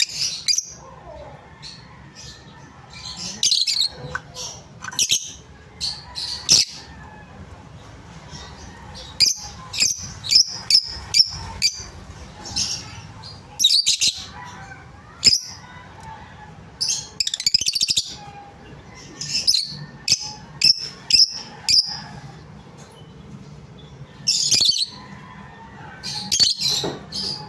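A bird calling with short, sharp, high-pitched squawks and chirps. The calls come in irregular clusters, some in quick runs of several notes.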